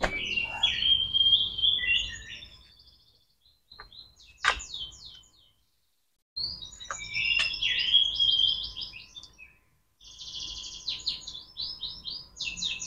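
A small songbird chirping and warbling in several high-pitched bursts with quick trills, separated by short pauses.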